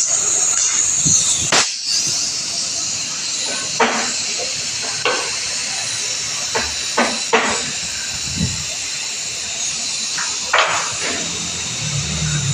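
Intermittent sharp knocks and clinks of hand tools on metal parts, about seven in all, over a steady hiss.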